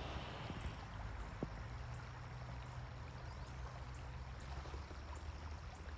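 Faint creek water running, with a low steady hum underneath and a single small tick about a second and a half in.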